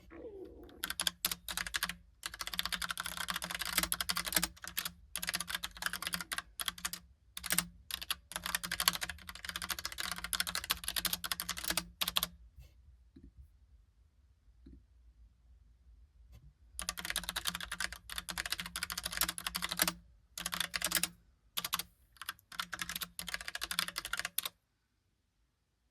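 Fast typing on a Logitech Pop Keys mechanical keyboard with round, typewriter-style keycaps, a dense run of key clicks. The typing pauses for about four seconds midway, then resumes and stops shortly before the end.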